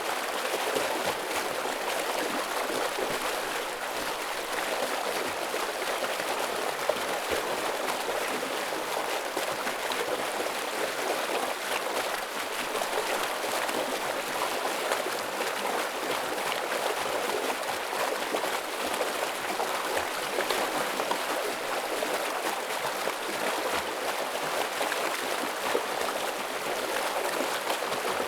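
Stream water rushing and splashing steadily over rocks, a full, even flowing sound with fine bubbling detail.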